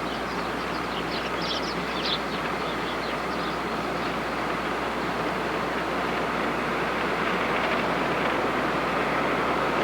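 Steady rumble of a car driving, road and engine noise growing slightly louder.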